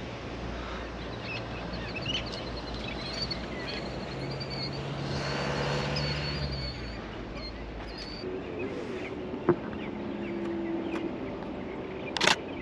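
A motor vehicle passing, its engine hum swelling and rising slightly in pitch in the middle before fading, with faint high bird chirps and a trill over it. Near the end a camera shutter fires a quick burst.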